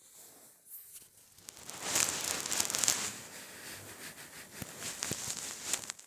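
Crinkling, rustling noise with many small crackles, loudest in the middle and stopping shortly before the end.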